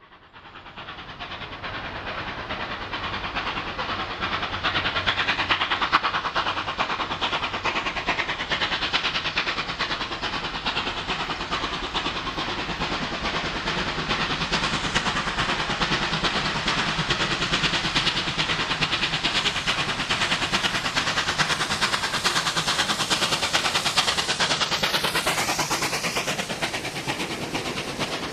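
New South Wales 38 class Pacific steam locomotive hauling a passenger train, its exhaust and the wheels on the rails building up over the first few seconds and then running on steadily.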